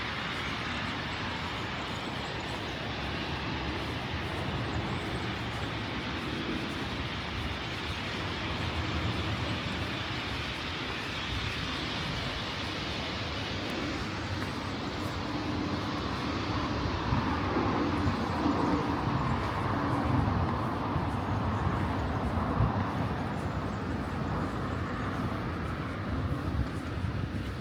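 Steady city traffic noise, growing louder for several seconds past the middle as a large vehicle passes, then easing off.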